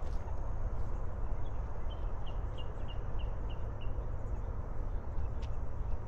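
A bird sings a quick series of about eight short, falling notes, roughly three a second, over a steady low rumble and the scuff of footsteps on the trail.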